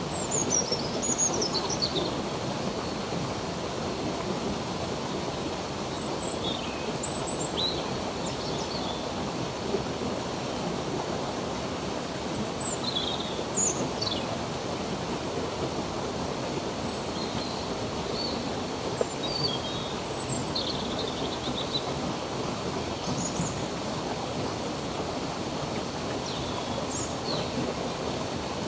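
Steady rushing of a flowing stream, with birds chirping here and there over it in short high calls and quick falling whistles.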